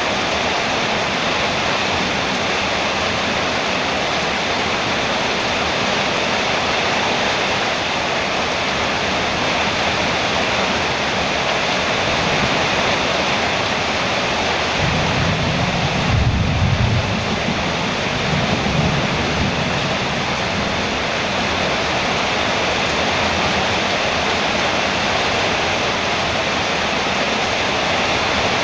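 Heavy rain falling steadily on a metal roof, with a low rumble of thunder swelling about halfway through and a smaller one just after.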